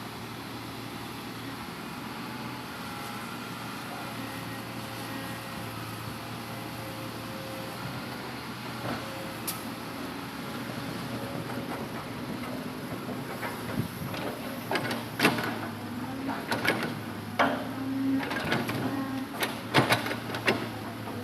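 Hitachi Zaxis 200 excavator's diesel engine running steadily. From about two-thirds of the way in comes a series of sharp, irregular knocks and clunks as the excavator handles and loads logs.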